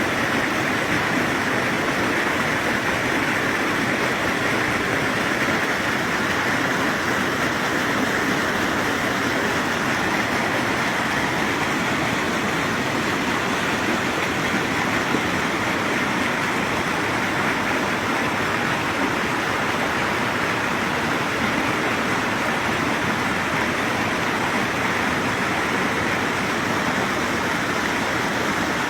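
Water from a mountain spring flowing steadily, an even rushing noise.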